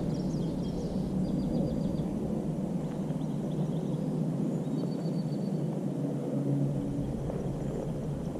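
Steady low outdoor rumble with small birds chirping and trilling faintly on and off, mostly in the first second and a half and again around five seconds in.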